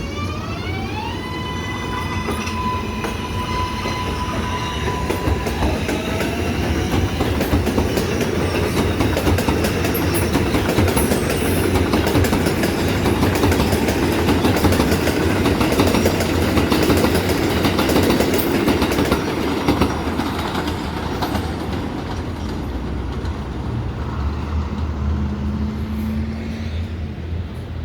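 R188 subway train's propulsion whine rising in pitch and then holding steady for a few seconds. Rumble and wheel clatter build to their loudest about halfway through and then ease off.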